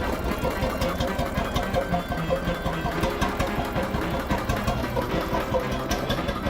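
A 100-horsepower hot bulb engine running with a steady, rhythmic beat.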